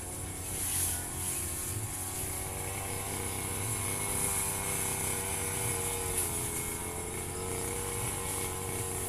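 Firman FGB 528 brush cutter engine running steadily while cutting grass, its pitch wavering slightly, with a few brief hissy flares.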